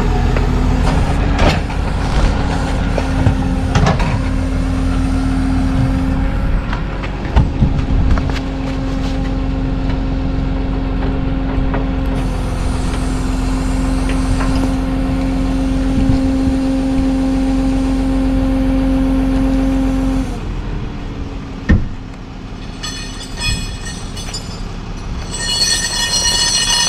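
Tow truck engine running steadily at a raised speed, with scattered clanks and knocks, and cutting back about 20 seconds in. In the last few seconds a high squeal of several tones comes in.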